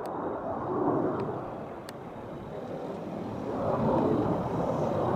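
Distant military jet engine noise, a rumbling roar that fades a little and then grows louder over the last couple of seconds as the aircraft comes nearer on a low approach.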